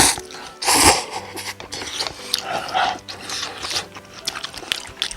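Close-miked eating sounds: two loud slurps of noodles, one at the start and another about a second in, followed by quieter wet chewing clicks.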